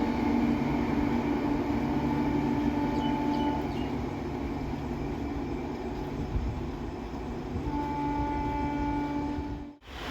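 Indian Railways locomotive horn sounding two long held blasts, the first lasting about three and a half seconds and the second starting near eight seconds, over the steady rumble of a passing train. The sound cuts off abruptly just before the end.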